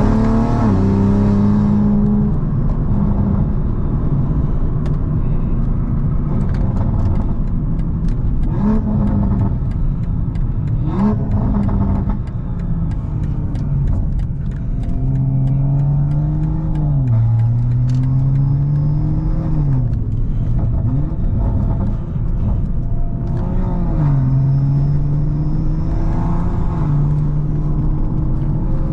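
BMW M340i's tuned turbocharged B58 inline-six pulling hard. The engine note climbs and drops again and again through gear changes, with a high turbo whistle over it at times.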